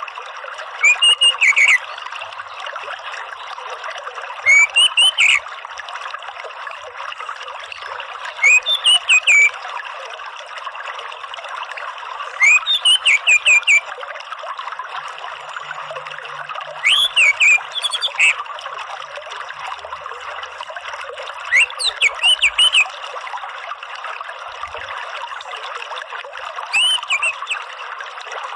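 Orange-headed thrush giving short song phrases of several quick rising whistled notes, seven times at about four-second intervals, over a steady sound of trickling running water.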